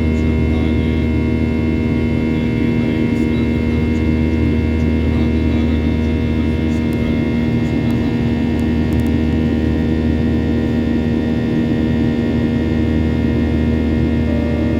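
Boeing 737-800's CFM56-7B jet engines heard inside the cabin: a steady drone with several held tones over a low rumble, unchanging throughout.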